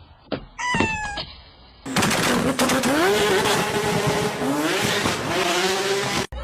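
A motor spinning up and running loudly over a strong hiss, its pitch rising then holding, cut off suddenly near the end. Just before it, a short falling squeal-like call.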